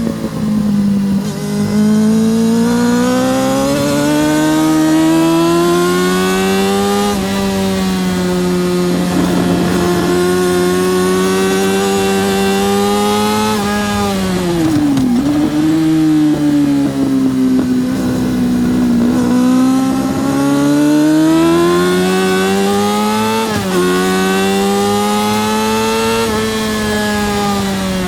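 Yamaha R6 (RJ03) 600cc inline-four engine at racing revs, its pitch climbing steadily and stepping back down at gear changes, with a sharp drop about halfway through as the bike slows for a corner before it winds up again. Wind rush runs underneath.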